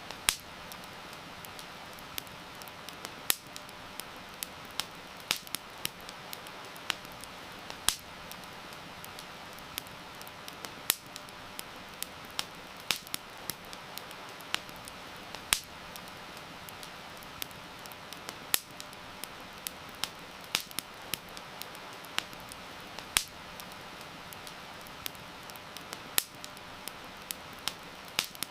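Wood fire crackling, with frequent small pops and every few seconds a louder snap, over a steady hiss of rain.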